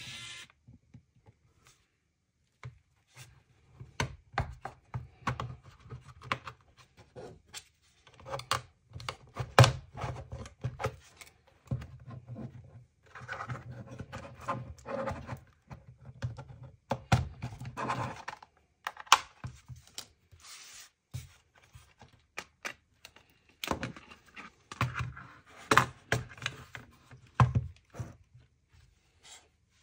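Hands and small tools working on a plastic blood pressure monitor: irregular clicks, knocks and scrapes at close range, with a few louder thunks.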